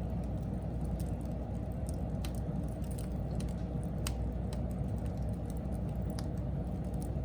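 Wood fire burning: scattered sharp crackles and pops over a steady low rumble.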